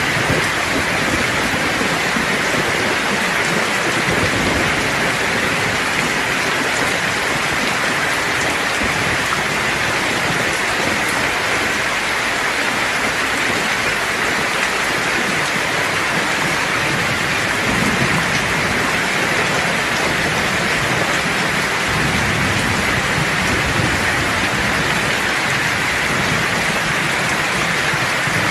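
Steady rain falling in a thunderstorm, with low rumbles of thunder about two-thirds of the way through and again near the end.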